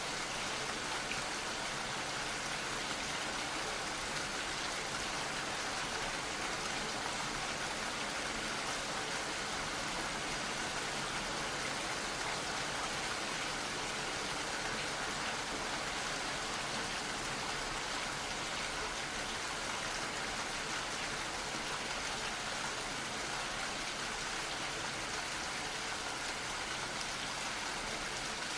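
Gentle rain falling steadily, a soft continuous patter of drops on surfaces.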